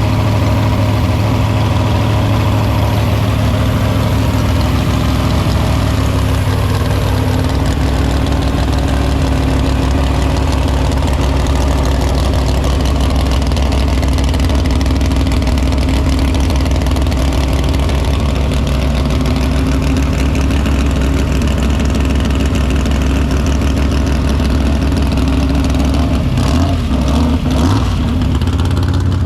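Car engine idling steadily with a deep, even note; the note shifts slightly about seven seconds in and wavers briefly near the end.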